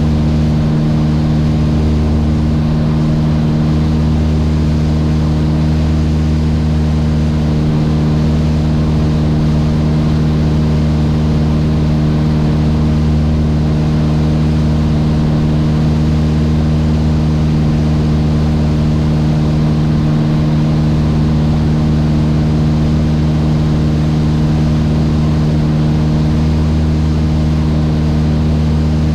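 Mooney M20J's four-cylinder Lycoming IO-360 engine and propeller droning steadily in flight, holding one even pitch.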